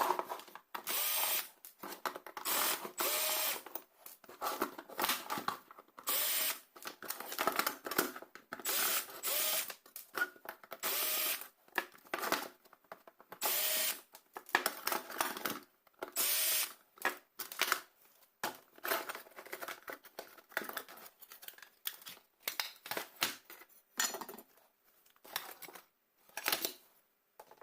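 Power driver run in many short bursts, again and again with pauses between, taking out the screws to open the casing of a 20-amp battery charger.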